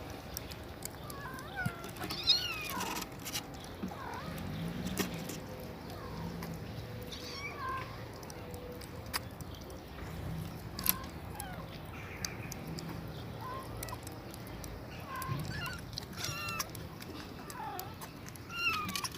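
Kittens mewing over and over: short, high-pitched calls every second or two, with a few scattered clicks.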